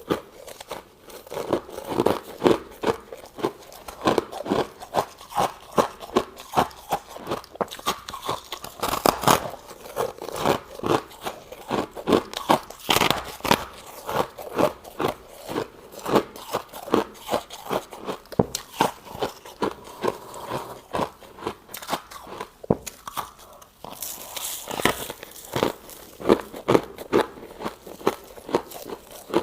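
Freezer frost being chewed close to the microphone: a steady run of crisp, crunchy bites, two or three a second, with a short lull about three quarters of the way through.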